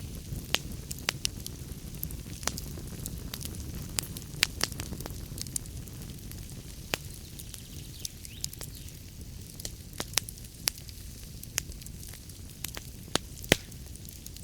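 Wood fire crackling in a fireplace: sharp, irregular pops and snaps over a steady low noise from the burning.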